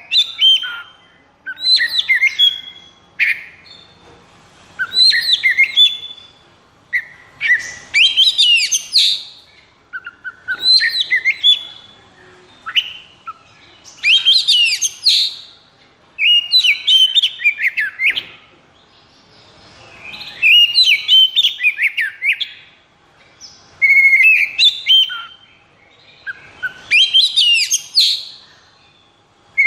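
Oriental magpie-robin (kacer) singing its excited 'konslet' song: loud phrases of fast whistles, trills and rattles, each one to two seconds long, repeated with short pauses between.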